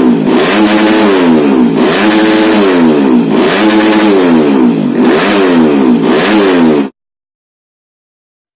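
Modified 125 cc underbone motorcycle engine revved again and again, its pitch falling and rising about five times, then cutting off abruptly near the end.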